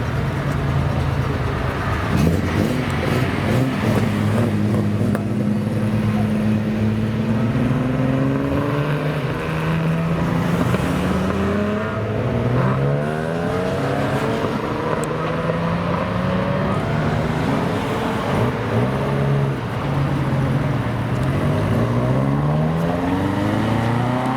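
Car engine revving, its pitch climbing in repeated sweeps and dropping back several times.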